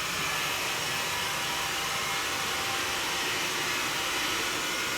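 Xiaomi Mi robot vacuum running steadily: a constant whir of its suction fan and brushes as it cleans.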